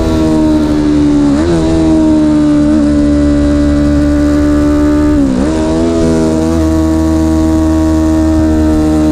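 A vehicle engine running hard at fairly steady high revs, its pitch sinking slowly. The note dips briefly and recovers about a second and a half in, and again a little past five seconds.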